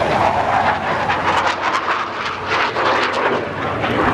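Fixed-wing aircraft engine noise from an airplane flying by: a steady rushing drone, with a run of short crackles in the middle.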